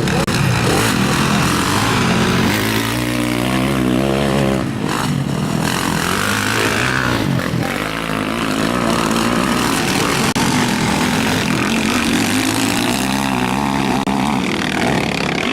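Motocross motorcycles racing, their engines revving up and down through the gears as they ride the track; one engine climbs steeply in pitch about three to five seconds in.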